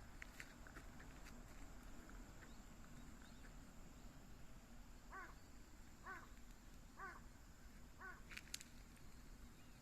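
A bird calling four times, about a second apart, over quiet rural background, with a sharp tick near the end.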